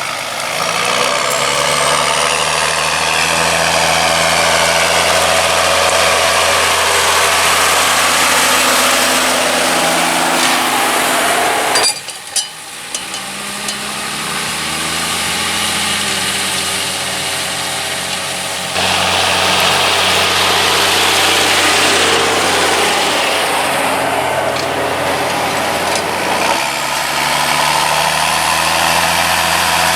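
John Deere 6520 tractor's six-cylinder diesel engine running steadily under load while pulling a plough. The sound drops away briefly with a few clicks about twelve seconds in, then builds back up.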